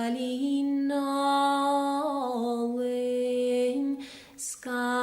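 A solo voice singing a slow, unaccompanied-sounding song in Irish, holding long notes that glide slowly between pitches. It breaks off briefly about four seconds in for a breath, then goes on.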